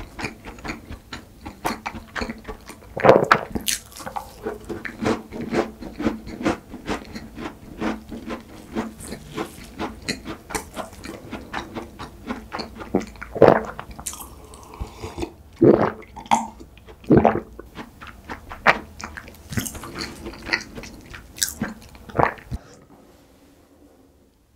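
Close-miked chewing of flaky croissant pastry, crisp crackles and wet mouth sounds coming irregularly, with a few swallows of a drink partway through. The sound fades away about two seconds before the end.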